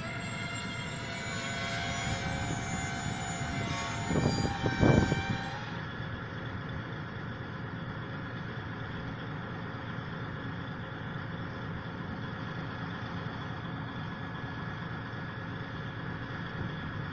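Cane train's wheels squealing on the track for the first few seconds, with a few loud knocks about four seconds in. The squeal then stops and the cane tramway diesel locomotive runs steadily, idling.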